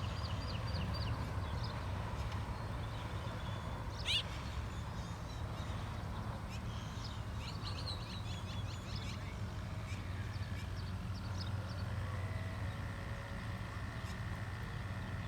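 Birds chirping in short rapid series over a steady low hum, with one sharp rising call about four seconds in.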